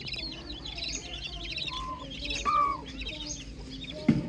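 A brood of young chickens peeping continuously: many short, high, overlapping chirps, with a few lower, longer calls among them. A single sharp knock comes just before the end.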